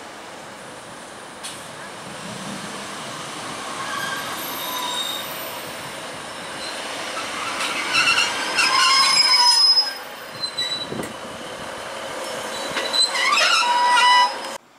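British Rail Class 156 Sprinter diesel multiple unit pulling into a platform and braking to a stop, growing louder as it draws alongside. High-pitched squealing from the wheels and brakes comes in two spells, the second near the end with tones gliding upward, and the sound cuts off suddenly at the very end.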